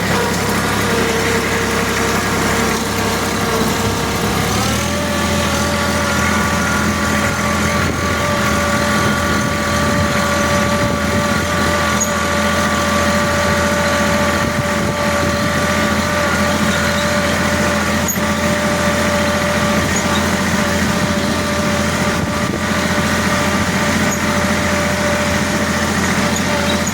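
A machine running steadily with a whine over a low hum; the whine steps up in pitch about four and a half seconds in, then holds.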